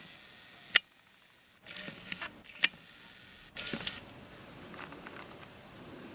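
A few sharp clicks and taps of hard plastic being handled: one loud click about a second in, another partway through, and a short cluster of smaller clicks after it.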